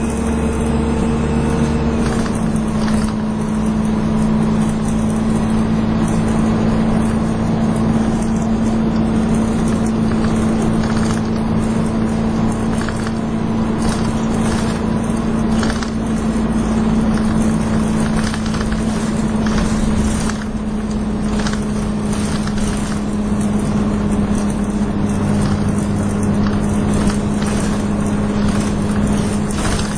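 Dennis Dart SLF single-deck bus on the move, heard from inside: a steady hoover-like whine over the engine and road noise. Frequent rattles and knocks come from the body, and the deeper engine tones change about two seconds in.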